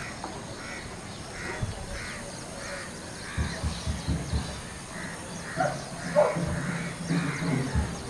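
A bird calling repeatedly, a steady series of short calls about one and a half a second, pausing briefly near the middle. Low thumps and rumble come in partway through, the loudest about six seconds in.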